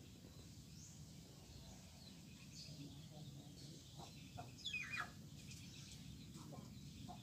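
Faint outdoor background hum with a few short bird calls, the loudest a quick falling call about five seconds in.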